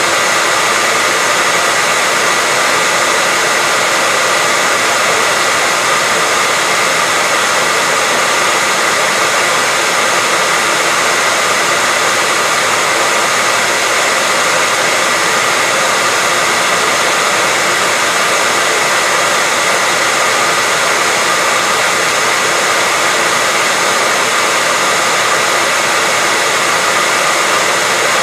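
Hair dryer running steadily at constant speed, an even rushing hiss with a faint steady whine in it, used as white noise.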